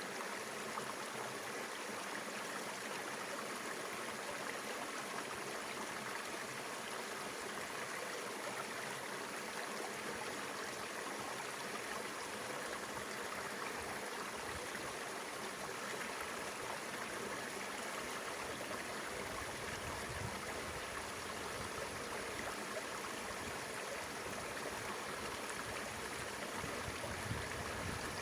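Mountain river water rushing and splashing over rocks, a steady, even noise.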